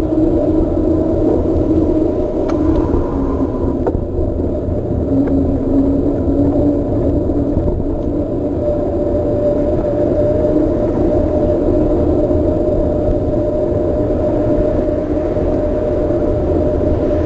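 Trek Marlin 7 mountain bike rolling along a path: a steady tyre hum over a low rumble, with no break or sudden sound.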